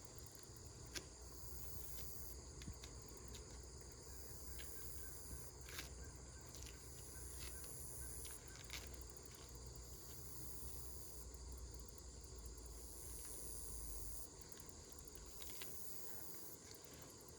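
Faint, steady high-pitched insect chorus that drops out and resumes every second or two, with a few soft scattered clicks and a low background rumble.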